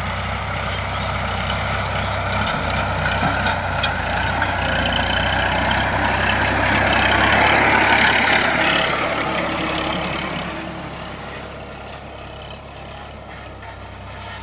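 Sonalika DI 745 tractor's diesel engine running with a steady low hum. It grows louder toward the middle, then eases off about ten seconds in.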